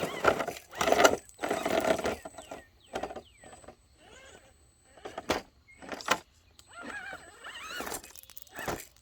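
RC rock crawler truck's small electric motor and drivetrain whining in short bursts as it climbs over rock, with a couple of sharp knocks from the truck hitting the rocks about five and six seconds in.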